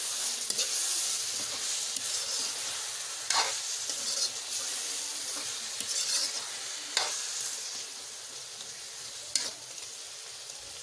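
Chicken and potatoes sizzling in hot oil in a black metal kadai as a metal spoon stirs them, with a few sharp scrapes of the spoon against the pan. The sizzle eases a little in the last few seconds.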